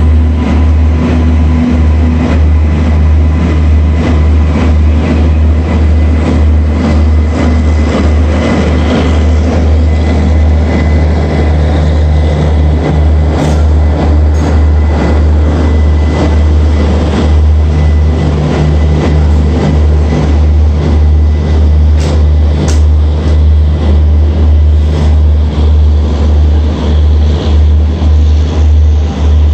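Train pulling slowly past on a nearby track: a WAG-9 electric locomotive followed by its coaches. A heavy low rumble runs throughout, and a regular pulsing sets in near the end as the coaches roll by.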